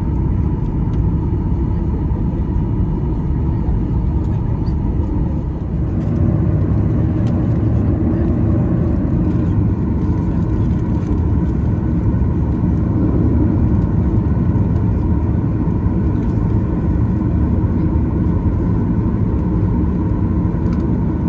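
Cabin noise inside a Boeing 737-800: its CFM56 jet engines and the airframe give a steady low rumble with a thin steady whine on top. The rumble grows a little louder about six seconds in.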